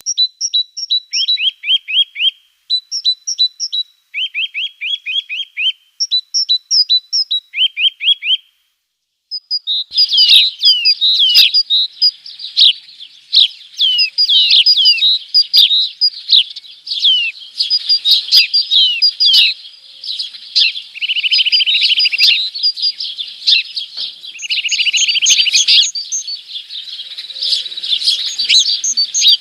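Small songbirds singing. A short song of high notes followed by a lower trill repeats several times, then from about ten seconds in many birds chirp together in a dense, continuous chorus.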